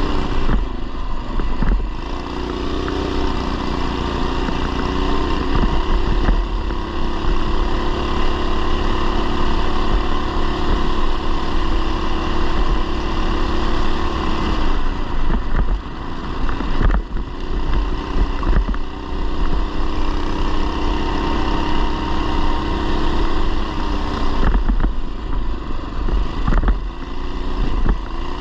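Mini bike's 212cc single-cylinder engine running under way at steady throttle, its note dropping and climbing back several times as the throttle is eased off and reopened. Low wind rumble on the microphone throughout.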